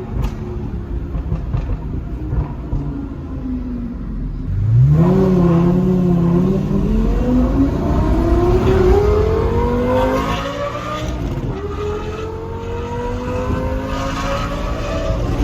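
Lamborghini Gallardo Superleggera's 5.0-litre naturally aspirated V10, through an aftermarket exhaust, running steadily. About five seconds in its note jumps up sharply and grows louder, then climbs slowly. It drops back briefly a little past the middle and climbs again.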